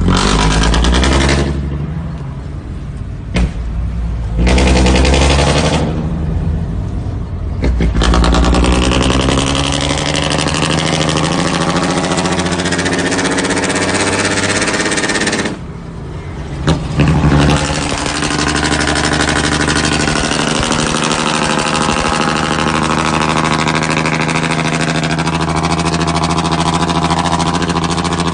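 Scania R540 truck's V8 diesel engine heard through its exhaust, loud: blipped a few times in the first eight seconds with a deep low rumble between blips, then held at steady revs for the rest, dropping back briefly once about sixteen seconds in.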